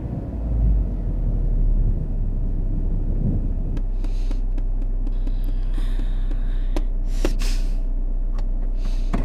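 Car engine running low, heard from inside the cabin, settling into a steady idle about four seconds in, with a few light clicks and rustles near the end.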